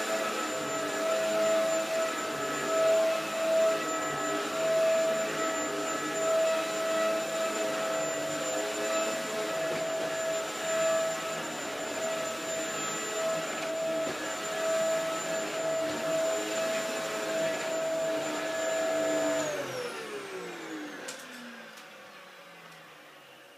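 Dyson DC07 upright vacuum cleaner running with a steady whine, then switched off about 19 seconds in, its motor winding down in a falling pitch.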